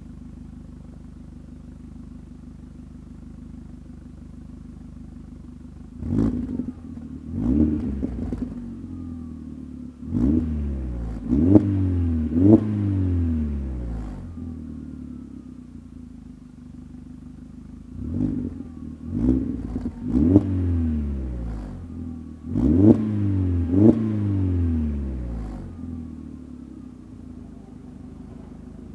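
VW Bora/Jetta mk4 1.8T turbo four-cylinder engine through a 2.5-inch stainless steel exhaust, idling steadily and then blipped in two bursts of quick free revs, about five sharp blips each, the pitch rising and falling back to idle after each.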